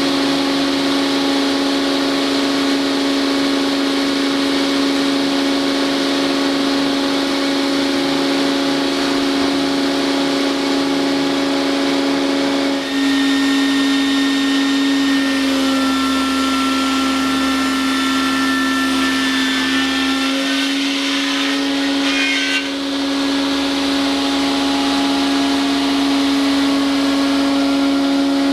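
Multi-rip edging saw with an 11 kW drive turning its 250 mm blades at about 4500 rpm, running steadily at speed with a strong steady hum. About halfway through, higher whining tones join for several seconds and then fade.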